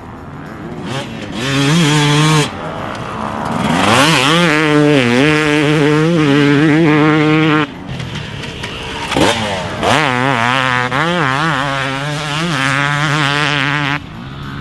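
Yamaha YZ250X single-cylinder two-stroke dirt bike engine revving as it is ridden. Its pitch climbs sharply about four seconds in and again near ten seconds, then wavers up and down with the throttle, and the sound breaks off abruptly a few times.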